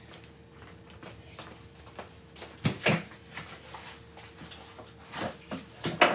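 A few sharp knocks or clatters over a faint steady hum, the loudest two close together about two and a half seconds in.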